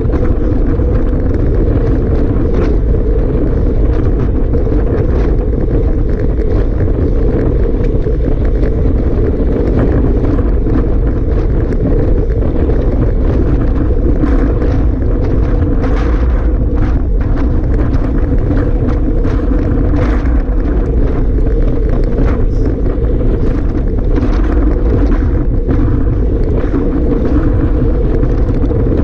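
Strong wind buffeting the microphone: a loud, steady low rumble with irregular crackles and gusts.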